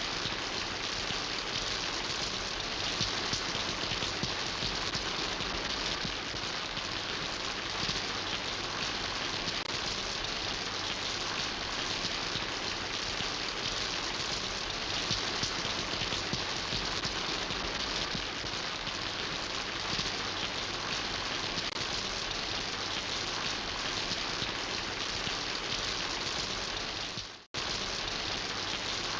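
Steady rain falling: a dense, even patter of drops. The sound cuts out for a split second near the end, then resumes.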